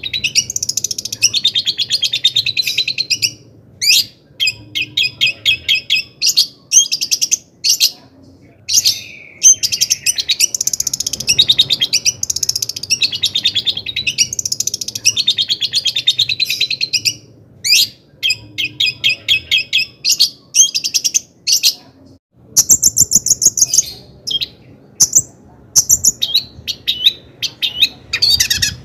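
A long-tailed shrike (cendet) singing energetically. Its song is runs of rapid, scratchy chattering notes, some delivered as evenly repeated rows, broken by short pauses.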